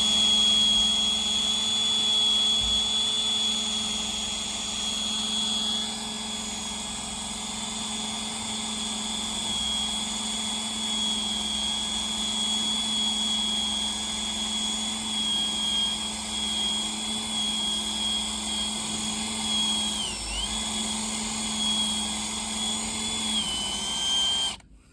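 Power drill spinning a rubber decal-eraser wheel against a sticker on a semi truck, a steady high whine that dips in pitch briefly about 20 seconds in and again near the end as it bears on the surface, then cuts off.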